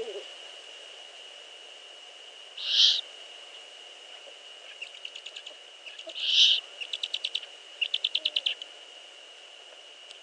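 Eurasian eagle owls calling at the nest: two short hissing rasps, about three seconds in and again midway. In the second half come three fast stuttering series of clipped notes, about ten a second.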